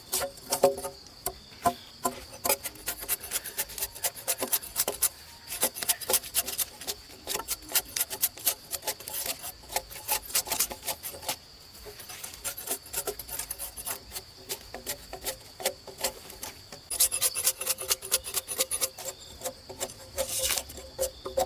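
Wood being worked with a hand tool in quick, repeated rasping strokes, with a short pause about halfway through.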